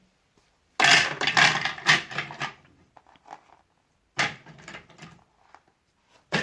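Plastic clattering and knocking as small toys are handled and loaded into a toy washing machine, in two bursts, the first longer and louder, with a few light ticks between.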